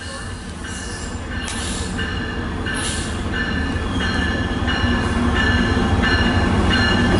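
MARC commuter train's diesel locomotive approaching along the track, its low rumble growing steadily louder. A bell rings in a steady rhythm, a little under twice a second.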